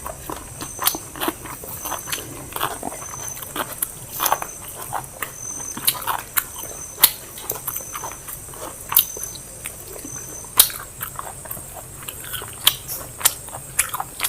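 People chewing biryani with their mouths close to the microphone, with many irregular wet smacks and clicks of lips and mouths.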